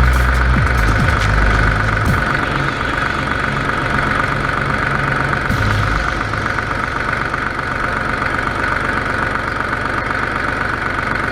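An engine running steadily, with a constant high hum over it and a heavier low rumble in the first two seconds.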